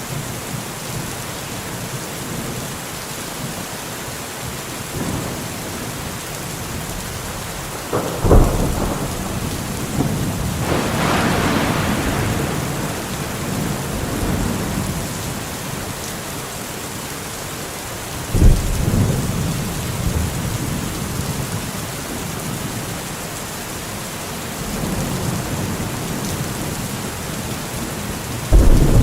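Steady rain with thunder: sudden claps about 8 and 18 seconds in, each trailing off into a rumble, and another clap starting near the end.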